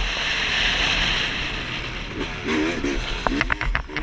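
Dirt bike engine running with a steady rushing hiss over it, its pitch rising and falling in quick revs over the second half.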